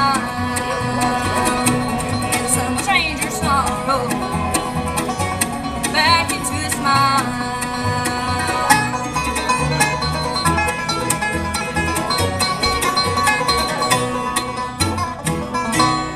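Bluegrass band playing, with banjo picking prominent over guitar and other string instruments.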